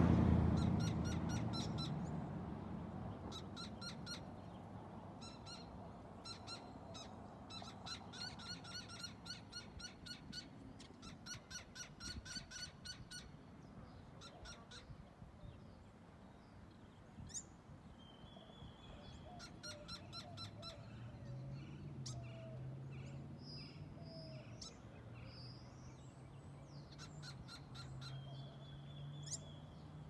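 A bird calling loud, rapid runs of sharp repeated notes in several bursts through the first half, then scattered shorter calls. The calls are taken for an alarm, a signal to defend its nest from an intruder. A low steady hum sits in the background in the second half.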